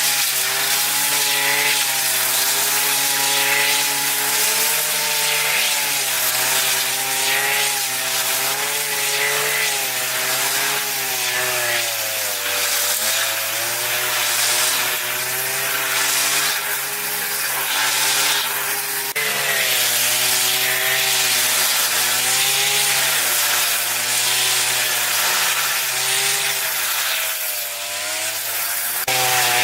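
Chainsaw running and cutting wood, its pitch wavering and sagging twice as the chain bites under load.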